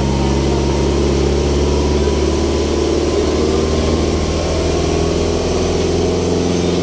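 Ferry boat's engine running steadily, heard from on board, with a faint high whine that rises slowly in pitch.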